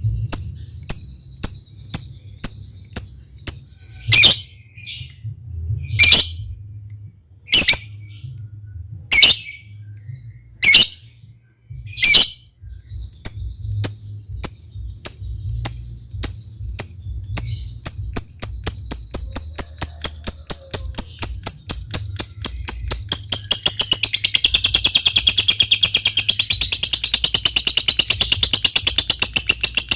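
Lovebird calling: evenly repeated sharp high chips with a few louder squawks between, then ticking that speeds up and runs into a long continuous rattling chatter near the end. This is the 'ngetik' ticking going over into a long 'ngekek' trill, the call of a lovebird in full song.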